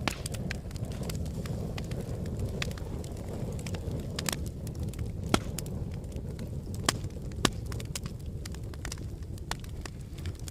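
Wood fire burning in a fireplace: a steady low rumble of flames with irregular sharp crackles and pops, a few louder pops around the middle.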